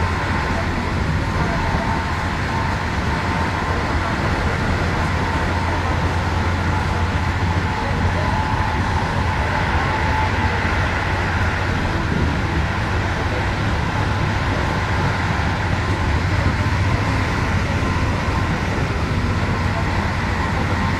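Steady running noise of an Intercity passenger train in motion, heard from inside the carriage: a constant low hum and rumble with an even rushing noise over it.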